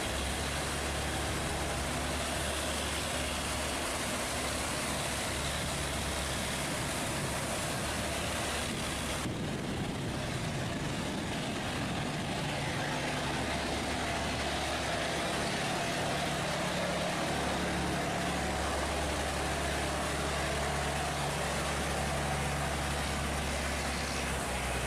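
A boat engine running steadily with a low hum over an even rushing noise, which is typical of fast-flowing water.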